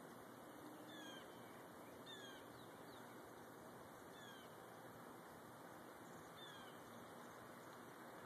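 A bird calling faintly, four short calls that each slide downward in pitch, spaced a second or two apart, over a steady hiss.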